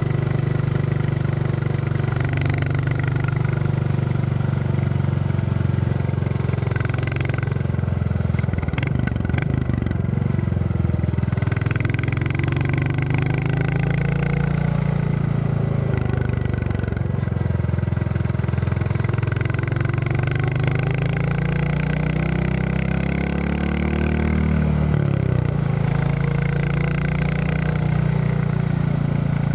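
Royal Enfield Classic 350's single-cylinder engine thumping along under way, its note rising and falling with the throttle. About eight to ten seconds in the note breaks briefly with some clatter, and towards the end the pitch climbs steadily for a few seconds before dropping back.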